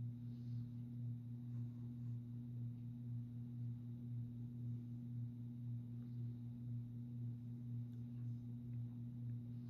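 Early-1980s American Industries 52-inch ceiling fan running at around medium speed, its motor giving a steady low hum that wavers evenly in loudness about once or twice a second. The owner puts the hum down to the fan's variable speed control.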